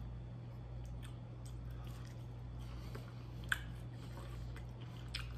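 Quiet chewing of sauce-soaked vegan chicken nuggets, with scattered faint mouth clicks and one sharp click about three and a half seconds in, over a steady low hum.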